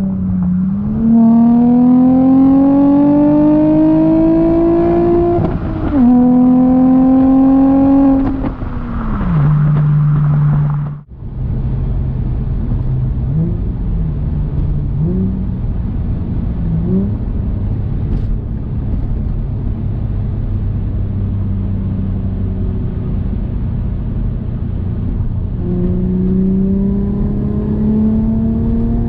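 2003 Audi A4 B6 3.0-litre V6 through a custom exhaust, pulling hard with the pitch climbing for several seconds, a quick dip as it shifts, then climbing again before the revs fall off. After a brief cut-out in the sound, it runs low and steady with a few short throttle blips, and near the end it starts pulling up through the revs again.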